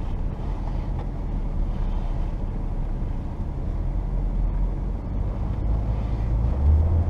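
Low, steady drone of a 1994 Saturn SL2 moving slowly, heard from inside the cabin: its twin-cam four-cylinder engine and road noise. The drone swells briefly near the end.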